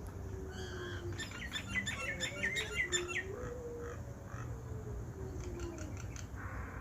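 Small birds chirping in a quick burst of repeated notes, with a few fainter chirps near the end, over a faint low hum.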